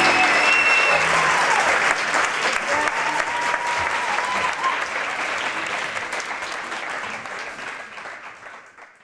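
Audience applauding, with a whistle near the start, fading out to silence at the end.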